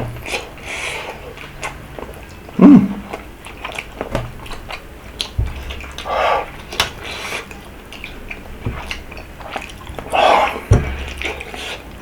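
Close-miked chewing of hot, chewy tteokbokki rice cakes, with wet mouth clicks throughout and a few short louder mouth sounds, the loudest about two and a half seconds in.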